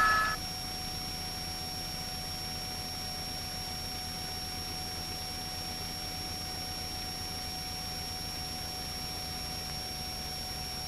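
Steady low drone with a few thin, unchanging high tones: the background hum of a police helicopter's cockpit intercom and radio feed, with no one speaking.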